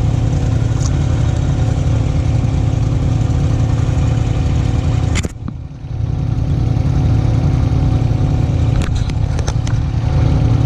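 Off-road vehicle engine running steadily on a trail ride. It briefly drops away a little past five seconds in, then picks back up, with a few sharp knocks near the end.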